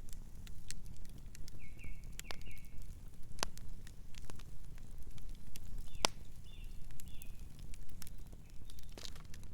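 Campfire crackling, with sharp pops scattered irregularly over a low steady rumble; the loudest pop comes about six seconds in. A nocturnal bird chirps softly in short runs of notes, once near the start and again around the middle.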